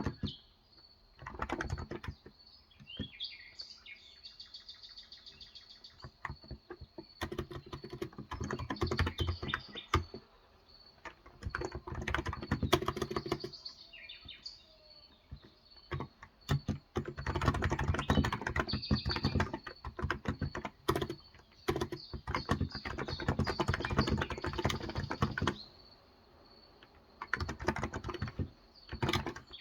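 Typing in bursts on a Cox Endeavour electrostatic capacitive (non-contact) tenkeyless keyboard with 35 g switches, with short pauses between runs of keystrokes. Birds chirp faintly in the background.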